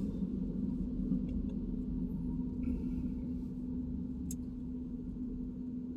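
Car cabin noise while driving: a steady low rumble of engine and tyres with a steady hum underneath. A single sharp click sounds about four seconds in.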